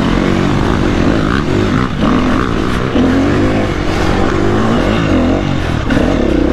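Enduro motorcycle engine running under throttle, its pitch rising and falling over and over as the rider works the throttle.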